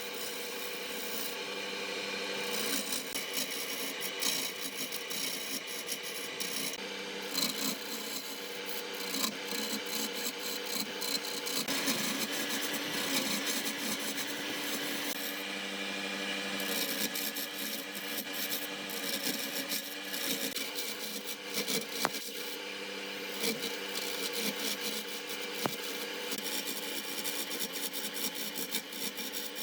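Woodworking lathe running with a steady motor hum while a cutting tool scrapes and rasps continuously against the spinning wood.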